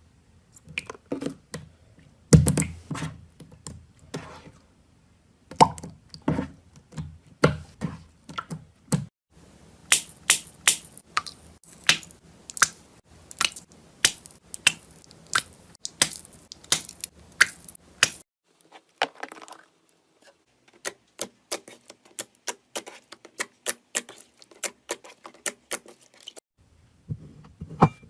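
Slime being squeezed and poked by hand, making runs of quick wet pops and sticky clicks, several per second, in a few separate stretches.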